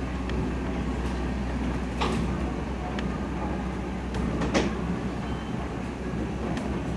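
Steady low rumble and hum inside a railroad passenger coach, with a sharp knock about two seconds in and another about four and a half seconds in.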